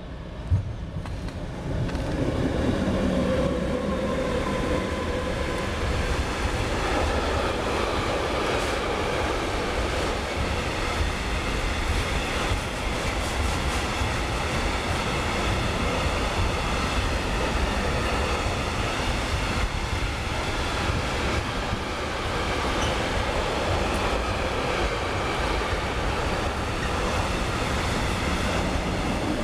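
Long electric freight train passing close by, a steady rumble and rattle of wagon wheels on the rails that swells about two seconds in and holds. A single sharp knock comes just after the start.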